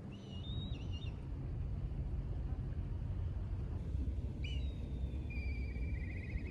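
Wind rumbling steadily on the microphone. A bird gives a short call in the first second, and bird calls return with a fast trill over the last two seconds.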